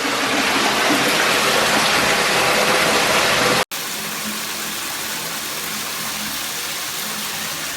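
Water running from a shower with a steady rushing hiss; it cuts off sharply about three and a half seconds in and picks up again quieter.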